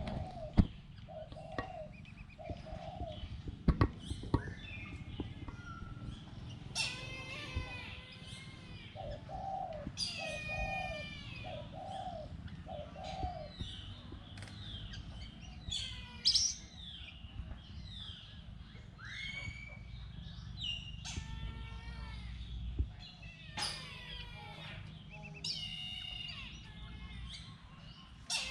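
Ducklings peeping: repeated bursts of high, falling chirps, with a run of four lower calls about nine to thirteen seconds in. A few sharp knocks come in the first few seconds over a low rumble.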